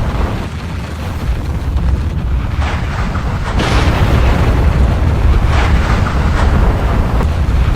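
Volcanic eruption: a deep, continuous rumble with several short blasts over it, growing a little louder about a third of the way in.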